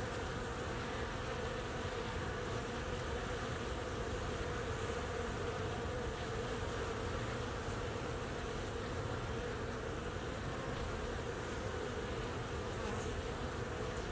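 A honey bee colony humming steadily at the hive entrance, stirred up by an oxalic acid vapor treatment.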